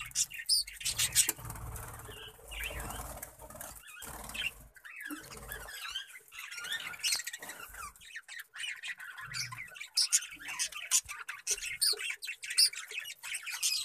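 A colony of budgerigars chirping and chattering constantly, with many short high chirps mixed with small clicks and wing flutters.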